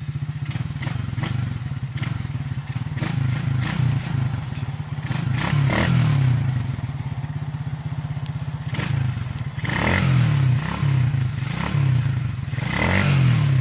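A 110cc dirt bike engine idling, revved up a few times, with some clicks and knocks.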